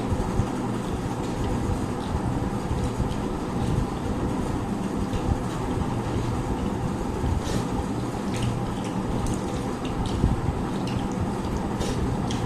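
Eating sounds: scattered short clicks and small wet smacks, more of them in the second half, over a steady low rumbling hum.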